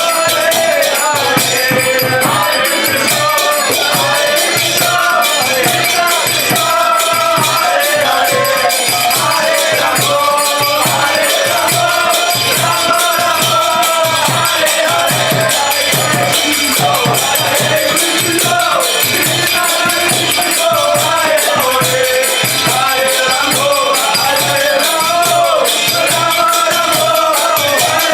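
Kirtan music: melodic chanting over a steady drum beat and fast jingling, rattling hand percussion.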